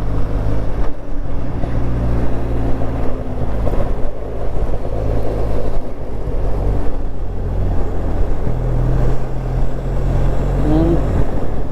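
Benelli TRK 502's parallel-twin engine running steadily under way, its pitch shifting a few times as the revs change, with wind rush over the microphone.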